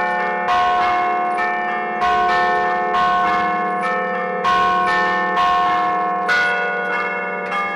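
Church bells played from a keyboard, struck by hammers ('a martellino') in an allegrezza tune: a quick sequence of strikes on several tuned bells, each note ringing on over the next.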